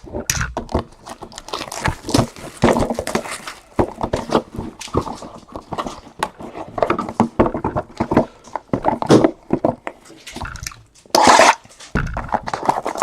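Trading-card packaging being handled and torn open: irregular crinkling, rustling and scraping of plastic wrap and cardboard with many small clicks, and a louder tearing rustle about eleven seconds in.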